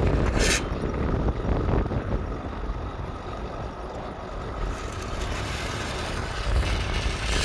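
Farm machinery engine running steadily with a low rumble, with a brief hiss about half a second in and another at the end.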